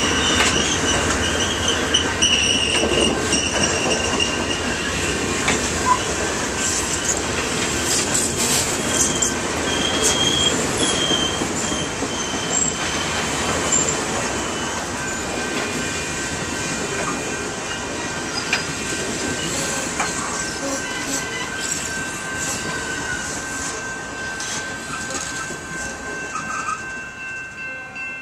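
A train rolling past on the rails, its wheels squealing against the rail in thin high tones that come and go over steady rolling noise, which fades gradually toward the end.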